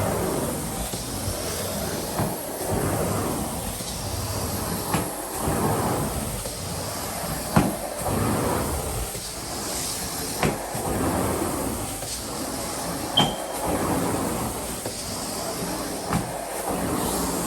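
Carpet extraction machine running with a steady whooshing hum, broken by sharp clicks every few seconds.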